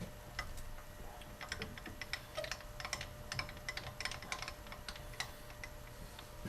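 A quick, irregular run of light clicks and taps from small tools and the workpiece being handled by hand while the part is marked off, busiest in the middle.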